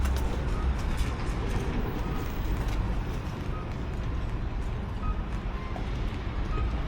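Steady low rumble of outdoor street ambience, with a few faint clicks.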